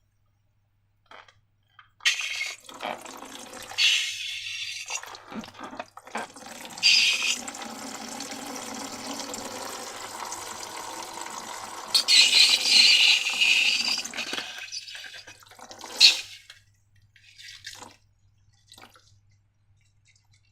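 Liquid slime mixture pouring and dripping into a container with wet splashes, in two main pours, the second longer and loudest near its end, followed by a single short wet slap.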